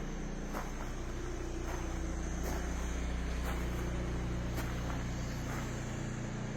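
Steady low mechanical hum with a few faint ticks and clicks.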